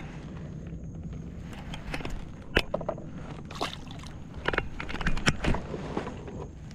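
Scattered clicks and knocks of gear being handled aboard a fishing kayak, over a low steady rumble.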